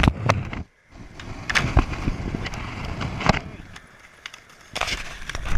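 Skateboard wheels rolling on wet pavement, broken by sharp clacks of the board striking the ground several times as tricks are popped and landed.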